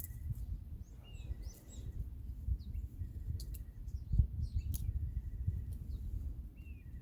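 A bird calling over and over, about every two seconds, each call a short high note followed by a level, rattling trill. Under it there is a steady low rumble and a few sharp clicks.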